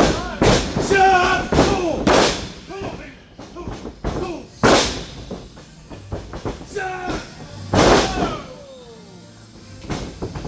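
Bodies hitting a wrestling ring: a series of loud, sharp slams and thuds, the biggest about half a second, two, nearly five and eight seconds in, with people shouting between them.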